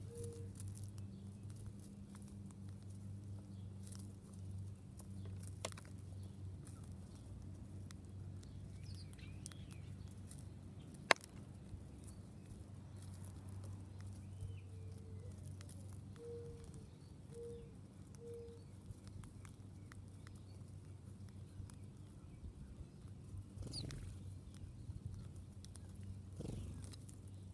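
Quiet outdoor wildlife ambience with faint bird calls: short low calls in runs of two or three, a few faint higher chirps, scattered small taps, and one sharp click about 11 seconds in, all over a steady low hum.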